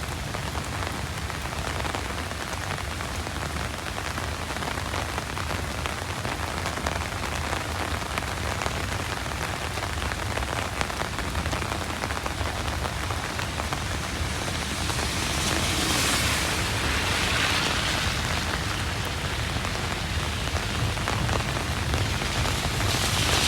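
Heavy rain falling steadily as a dense, even hiss. The hiss swells louder about two-thirds of the way through and again near the end.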